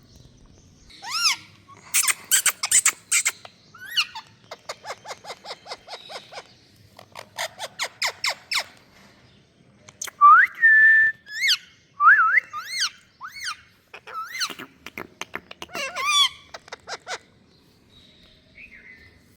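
Indian ringneck parakeet calling: bursts of rapid chattering mixed with sharp rising whistles, including one whistle held briefly about halfway through.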